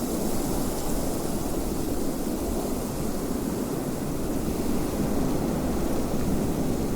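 Wind blowing steadily: an even, low rushing noise with no gusts or breaks.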